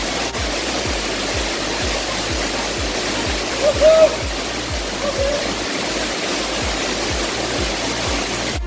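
Waterfall pouring hard, a dense steady rush of falling water, with a background music track's bass beat pulsing about twice a second underneath. The water sound cuts off abruptly at the very end.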